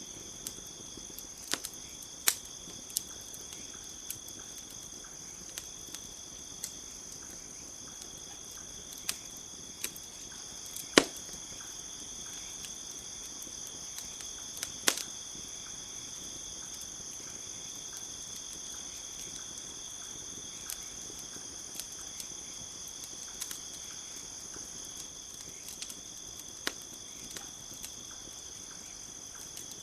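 Campfire crackling, with scattered sharp pops at irregular intervals, the loudest about 11 and 15 seconds in, over a steady chorus of crickets chirping.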